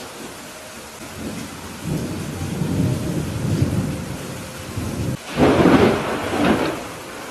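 Thunderstorm: steady rain falling, with a low rolling thunder rumble building from about a second in, then a loud, sharp thunderclap about five seconds in that rolls away.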